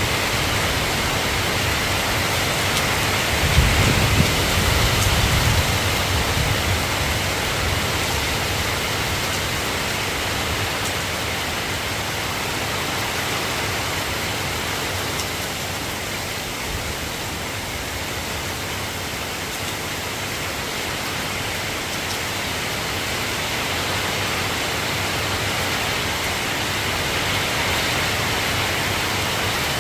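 Steady, even rain, with a brief low rumble about four seconds in.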